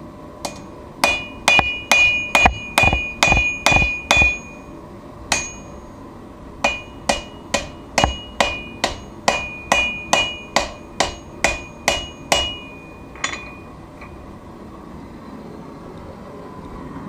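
Hand hammer striking steel on an anvil while forging a knife blade, about two to three ringing blows a second. The blows come in two runs, the second starting about six and a half seconds in and stopping near thirteen seconds.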